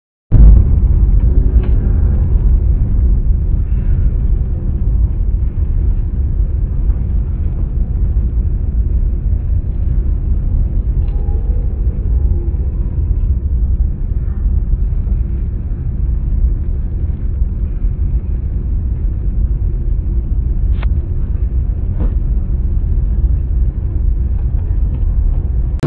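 Steady deep rumble of a jet airliner's cabin in cruise flight, with a few faint clicks.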